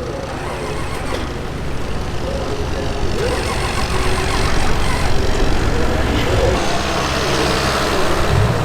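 Diesel pulling truck's engine running hard and getting steadily louder, with a rushing wash that builds partway through, over faint voices.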